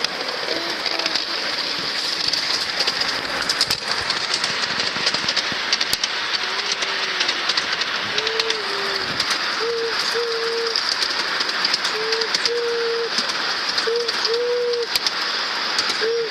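Ride-on miniature train running along its track: a steady running noise with scattered clicks. From about halfway through, a short two-part tone repeats about every two seconds.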